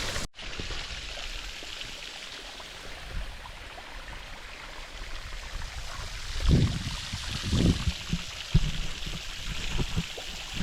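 Small stream running over bare rock: a steady rush of water, with two low thumps about two-thirds of the way in.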